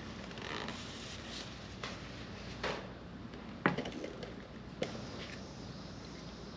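Work-handling noise: a few light, sharp knocks and clicks, about four spread through the middle, over a steady faint background hiss.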